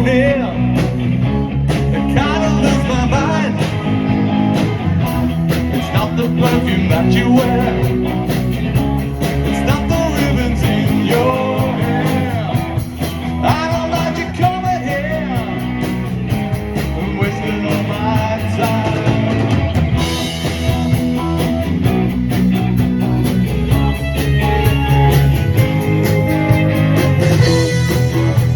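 Rock band playing with singing, guitar and drums.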